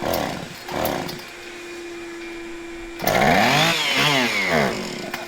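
An engine blipped twice briefly, then revved hard once, its pitch rising and falling back, over a steady hum.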